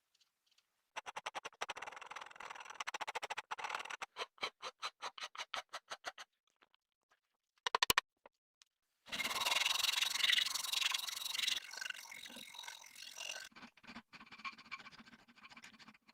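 Hand scraping or abrasive strokes worked back and forth on the rusty hammer, about four or five strokes a second, with a short flurry near the middle. A denser, steadier stretch of scraping follows.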